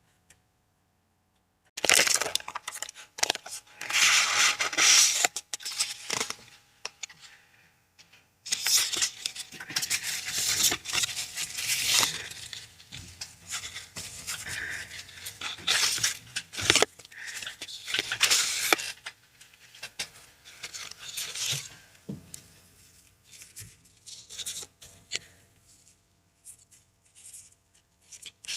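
Paper packaging being torn open and handled, in two long loud stretches of ripping and rustling, then quieter rustling near the end.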